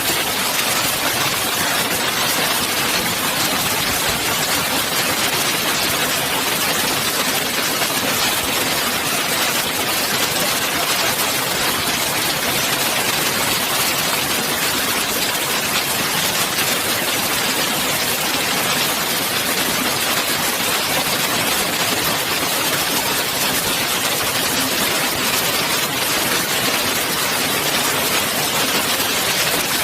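Hailstones falling hard, a dense, steady clatter of countless small impacts.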